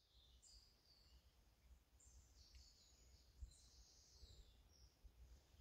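Faint woodland birdsong: scattered short, high chirps and trills, over a low rumble.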